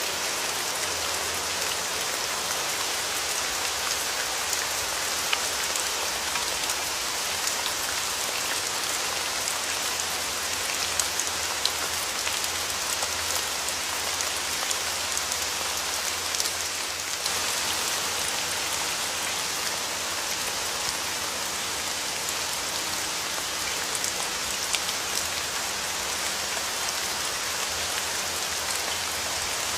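Steady rain falling on a surface, an even hiss dotted with many small raindrop ticks.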